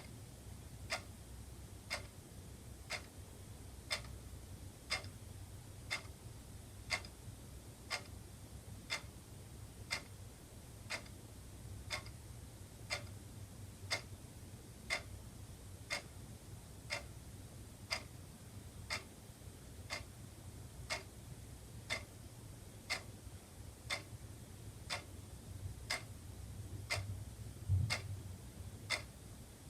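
Wall clock ticking steadily, one tick a second, over a low steady hum. A low thump sounds near the end.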